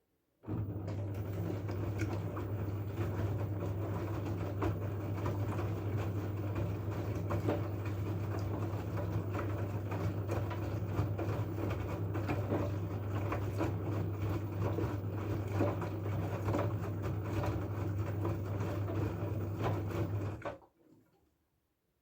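LG F12A8ND front-loading washing machine running partway through its cycle: a steady low hum with a constant patter of small clicks, starting just after the beginning and cutting off suddenly near the end.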